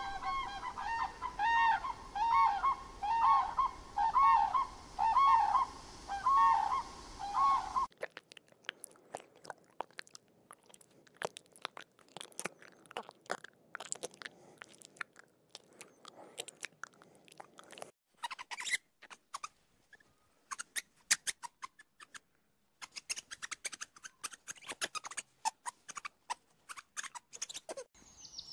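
A bird giving a series of about a dozen short, evenly spaced pitched calls, which stop abruptly about eight seconds in. A long run of sharp, irregular clicks and taps follows.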